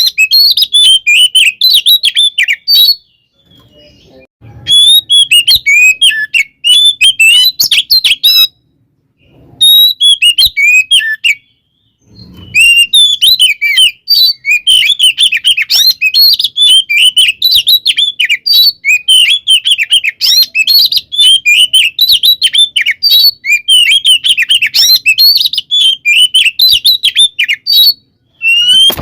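Oriental magpie-robin (kacer) in full, combative song: a fast, loud, unbroken stream of chattering notes and whistles. It breaks off briefly about three, eight and eleven seconds in, then carries on without a pause to the end.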